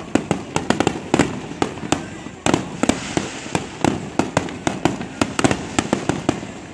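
Aerial fireworks shells bursting in a rapid barrage, a quick run of sharp booms and bangs several times a second.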